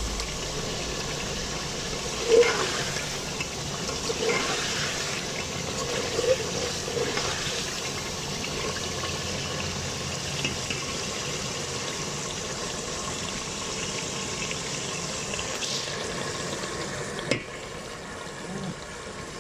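Chicken frying in spiced masala in a pot, sizzling steadily, with a spoon stirring and scraping against the pot a few times in the first half. A single sharp knock comes near the end.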